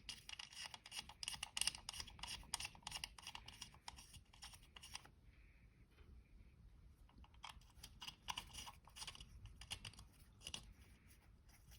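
Faint, irregular small metal clicks and scrapes of a 3/8-inch set screw being turned into a freshly tapped AFM oil hole in an LS engine block. The clicking pauses for about two seconds midway, then resumes.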